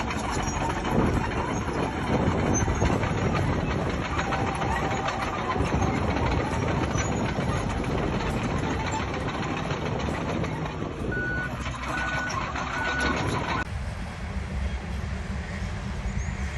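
Heavy construction machine's diesel engine running under load, with three short reversing beeps a little past the middle. The engine sound changes abruptly near the end.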